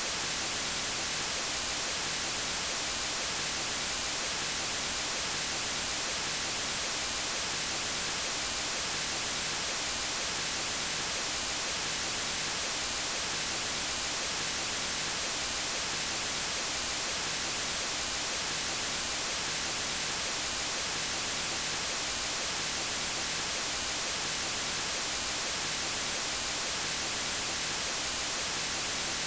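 Steady electronically generated white noise: an even, unchanging hiss, strongest in the high end.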